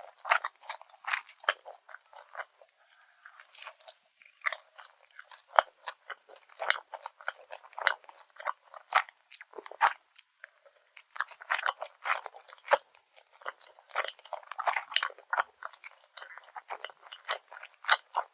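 Close-miked chewing and biting of grilled garaetteok rice cake with rice syrup: an irregular run of short crisp crunches and mouth clicks, pausing briefly a few times.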